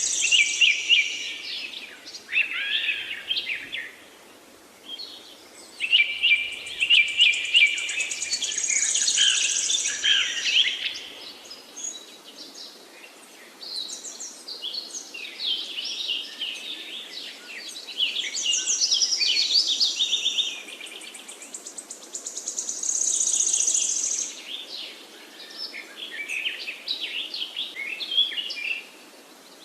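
Several songbirds singing and chirping together in overlapping phrases of rapid chirps and trills, some high and buzzy, rising and falling in busy spells with brief lulls.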